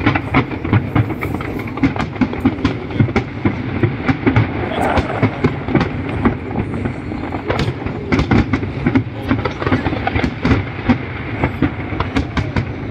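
Aerial fireworks going off in quick succession: a rapid, irregular string of pops and bangs over a continuous rumble.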